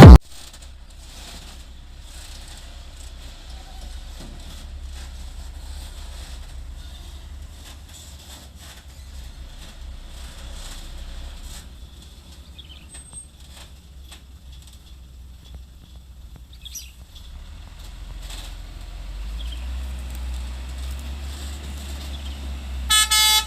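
Low steady outdoor rumble with faint scattered clicks, growing louder from about 18 seconds in. Near the end a truck's air horn starts, sounding stepped tones.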